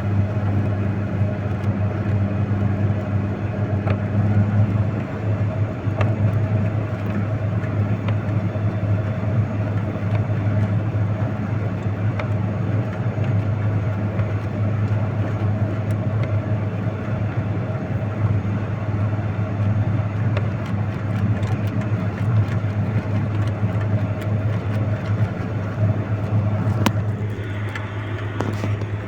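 A vehicle engine running steadily, an even low drone that holds without revving, with a haze of mechanical and road noise over it.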